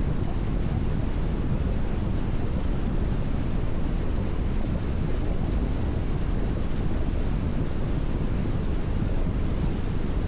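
Steady road noise of a car cruising on a rain-wet expressway: tyre hiss from the wet surface over a constant low rumble.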